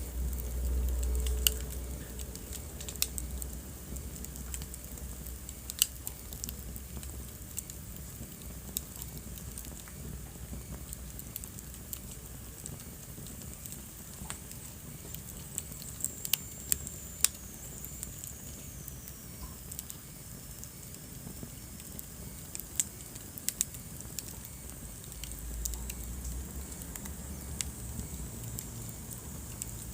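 Wood fire burning in a fireplace, crackling with sharp pops scattered irregularly throughout. A low rumble of the flames swells in the first two seconds and again near the end, and a faint high whistle falls in pitch about halfway through.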